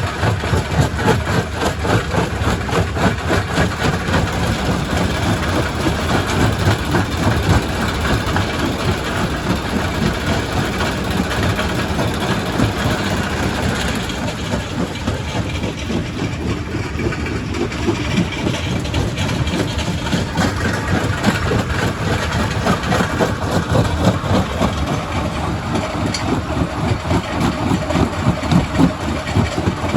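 Quarry primary rock crusher running under load: a steady heavy mechanical rumble with dense, continuous knocking and cracking of stone being broken.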